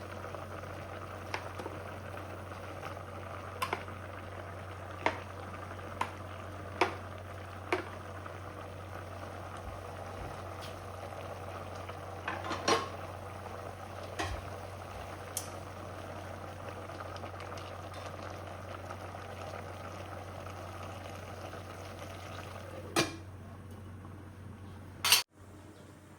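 A pot of food bubbling at the boil, with a metal spoon or ladle clinking and knocking against the pot as it is stirred, several knocks close together in the first third. A louder knock comes near the end, then the sound cuts off abruptly.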